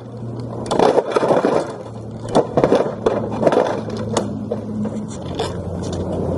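Lawnmower engine running steadily while a plastic toy is scraped and crunched under it, with many sharp cracks and knocks over the hum.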